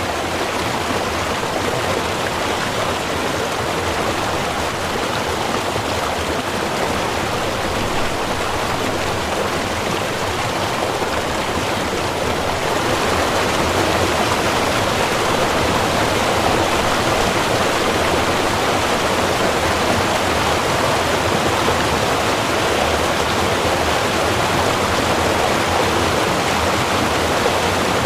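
Small river or stream running over rocks, a steady rushing of water that grows a little louder about halfway through.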